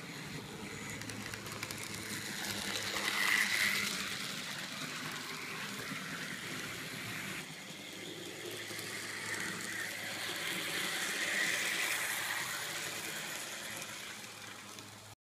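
N-scale model diesel locomotive running on the layout's track, its small motor and wheels whirring and clicking. The sound swells twice as the train comes close and falls away again.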